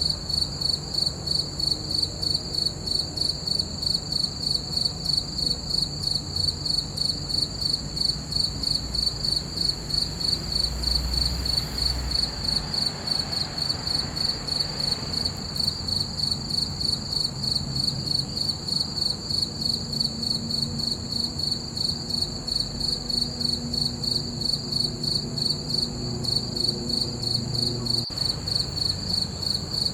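Crickets chirping in a steady, evenly pulsing high-pitched chorus.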